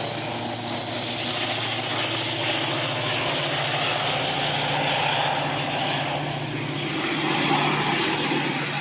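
Diesel train running past, a steady low engine drone under a loud, even rushing of wheels and rails.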